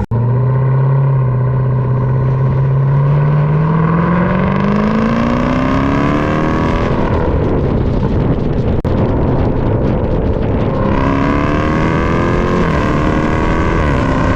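Supercharged 6.2-litre V8 of a Dodge Durango SRT Hellcat with the mid-mufflers deleted, accelerating hard. The exhaust note climbs steadily in pitch for several seconds, goes rough and noisy, then climbs again and drops back near the end.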